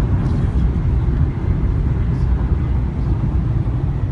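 Steady low rumble of road and wind noise inside a Mercedes cabin cruising at about 176 km/h on an expressway.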